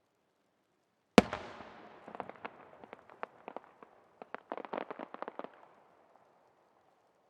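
A firework bursting overhead with one loud bang, followed by a run of sharp crackling pops that bunch together and die away after a few seconds.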